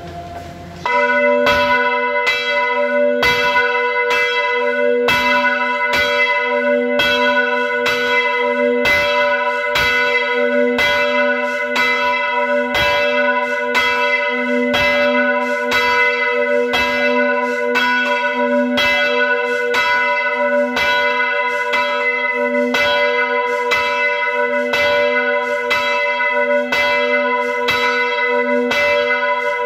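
A bell struck over and over at an even, fast pace, about two strikes a second, each strike ringing on into the next. It starts suddenly about a second in.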